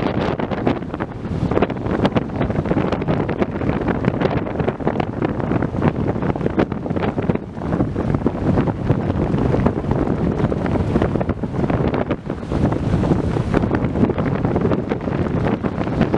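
Strong tropical-storm wind buffeting the microphone in gusts: a heavy, low rumbling rush that keeps rising and falling.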